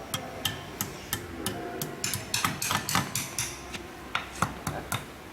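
Irregular sharp metallic knocks and clinks, many in a few seconds and thickest in the middle: hand tools striking and handling steel parts while a pellet mill's compression roller assembly is taken apart.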